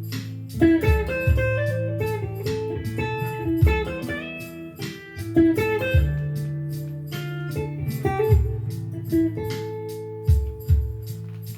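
Blues guitar playing: single-note lead lines with bent notes over sustained low bass notes and a steady beat of sharp hits.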